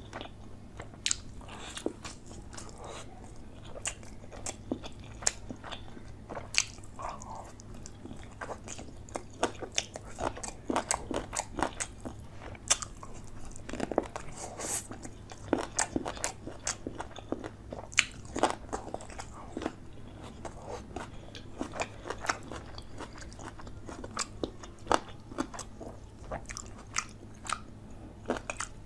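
Close-miked chewing and biting of chicken leg curry with rice eaten by hand: many short, irregular crunches and wet mouth clicks, over a steady low hum.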